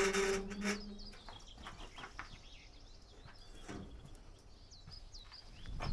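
Faint birdsong of short chirps and whistles, with a few soft clicks and knocks. A low steady hum fades out about a second in.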